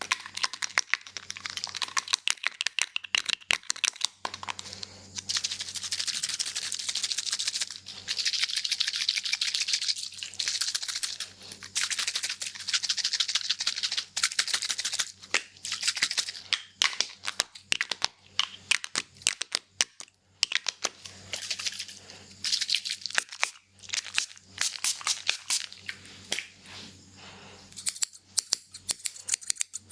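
Close-miked haircut sounds: barber's scissors snipping in quick runs of sharp clicks, between stretches of a hissing rustle a few seconds long.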